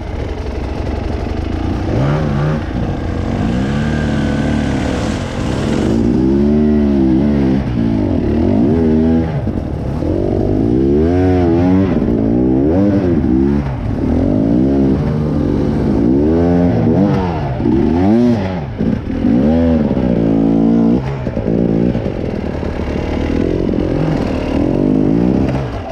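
Off-road vehicle engine revving up and down over and over, its pitch rising and falling every second or two as it works over rough trail.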